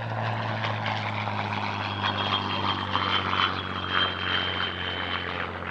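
Spitfire Mk Ia's Rolls-Royce Merlin V12 engine running in a display flypast: a steady drone with a high whine that falls slightly in pitch, growing a little louder mid-way.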